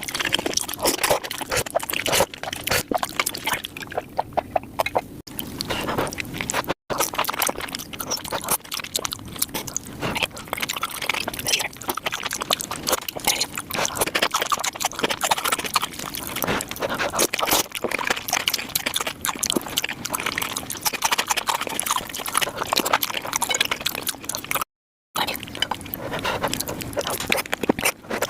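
ASMR mukbang eating sounds of noodles and rice cakes played at five times speed: a dense, rapid run of wet chewing, smacking and slurping clicks. It drops out to silence briefly twice, about seven seconds in and near the end.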